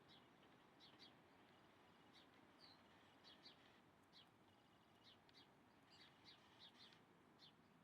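Birds chirping faintly: short, high chirps repeated irregularly, about two a second, over a low steady background hiss.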